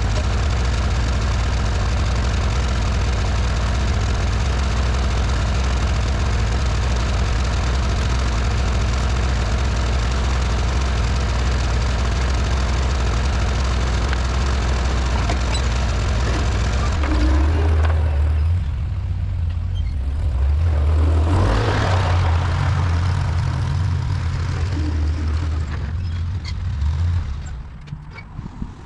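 Tractor engine running steadily, its note shifting about two-thirds of the way through, then shut off near the end.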